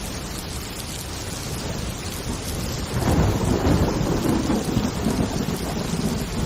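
Steady heavy rain with thunder: a low rumble rolls in about halfway through and keeps rumbling over the rain.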